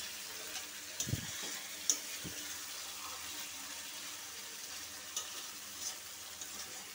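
Prawns and pointed gourds sizzling steadily in oil and spice masala in a pan as they are stirred and sautéed, with a few light clicks of the spatula against the pan.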